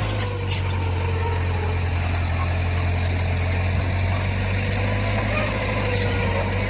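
Heavy diesel engine of earthmoving equipment running steadily: a low drone with a slowly wavering tone above it, and a few light clicks in the first second.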